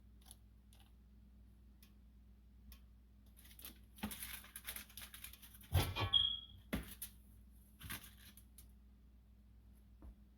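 Scattered soft clicks, rustles and scrapes of food and utensils being handled while a plate of baked chicken is served, busiest between about four and seven seconds in, with a short squeak near the middle.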